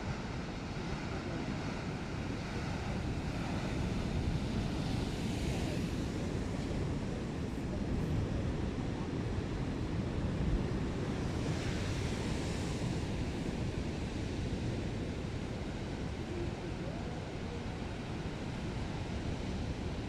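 Rough sea waves surging and breaking, with wind buffeting the microphone. Two louder washes of surf come about five and twelve seconds in.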